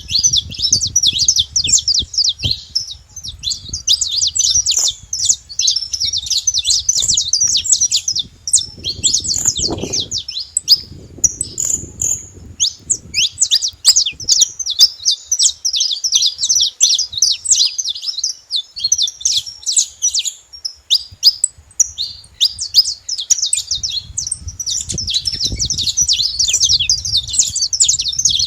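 Saffron finch singing: a long run of rapid, high chirping phrases, with a short break about ten seconds in.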